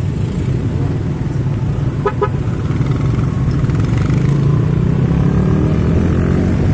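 Heavy truck engine running close by, growing a little louder, with two quick horn beeps about two seconds in.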